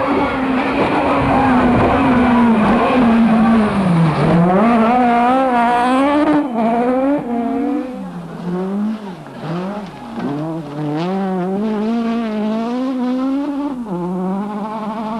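Naturally aspirated four-cylinder rally car engine revving hard on a stage. The engine note climbs and falls again and again through gear changes, with a sharp drop about four seconds in, several quick dips a little past the middle, and another drop near the end.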